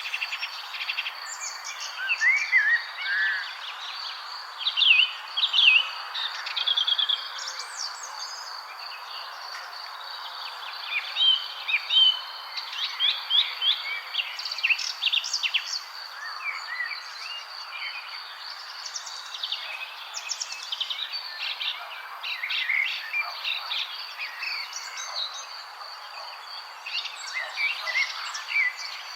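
Several wild birds chirping and singing in short, overlapping calls and trills, over a steady high-pitched whine and a constant soft hiss.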